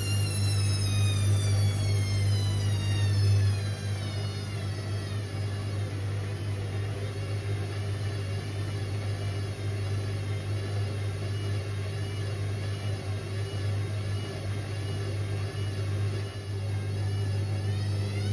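Indesit IWC6165 washing machine's drum motor whining downward as the drum slows over the first few seconds, then running at a steady lower speed with a slightly wavering whine over a steady low hum.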